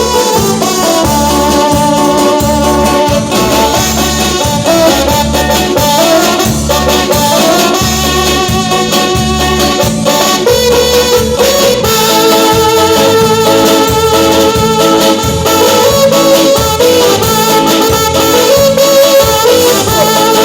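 Band music with brass horns over a steady bass and drum beat, in a Latin dance style.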